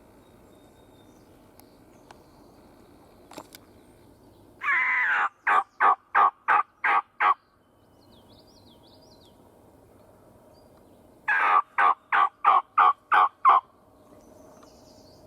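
Turkey hunter's call sounded twice, each series a longer opening note followed by about seven quick, loud notes at roughly four a second. Faint small-bird chirps between the two series.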